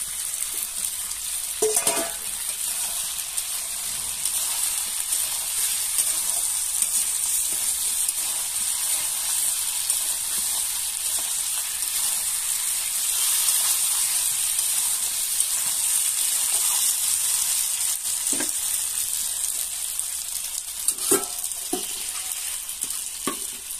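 Chicken and potato chunks frying in hot oil in a metal pan, a steady high sizzle, with a few knocks of the metal spatula against the pan as the curry is stirred.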